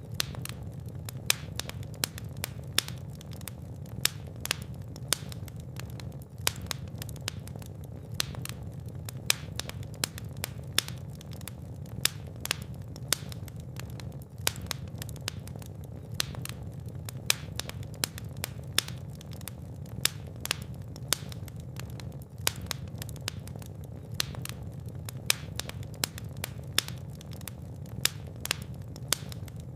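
Fire in a fireplace crackling, with frequent sharp pops and snaps scattered irregularly over a low, steady rumble of flame.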